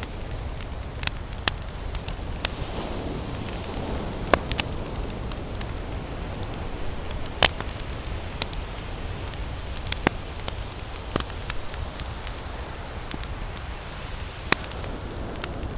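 Wood campfire crackling, with sharp pops every second or so over a steady low rush.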